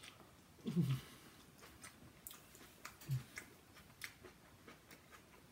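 A man chewing a crunchy mouthful close to the microphone, with scattered sharp crunching clicks. Twice he gives a short low hum, the first with falling pitch about a second in, the second about three seconds in.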